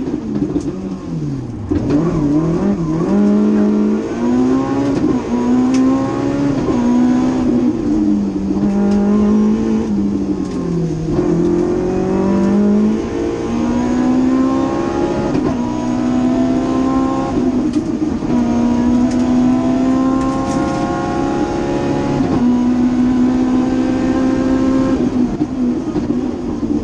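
BMW M3 rally car's engine heard from inside the cabin, driven hard through the gears. The pitch climbs and drops sharply at each gear change, falls away twice for slowing into bends, and holds steady for a few seconds near the end before dipping again.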